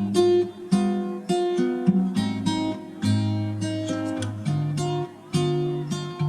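Background music: an acoustic guitar strumming and plucking chords at a slow, even pace.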